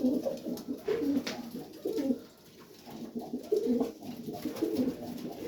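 Domestic homing pigeons cooing, several low, wavering coos overlapping one after another in a small loft.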